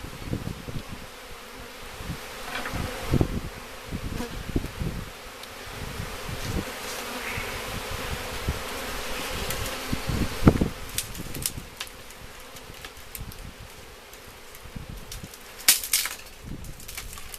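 Many honeybees from a freshly installed package buzzing steadily around the hive. A few sharp knocks of handling break in, the loudest about ten seconds in.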